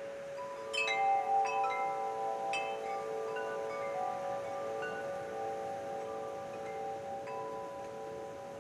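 Wind chimes struck in a cluster of rings about a second in, then a few lighter strikes, their metal tones ringing on and overlapping with a slow beating shimmer.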